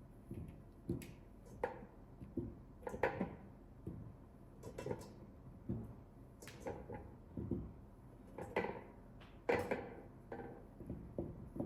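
Irregular light knocks and clatter of kitchen items being picked up and set down, a few sharper clicks among them.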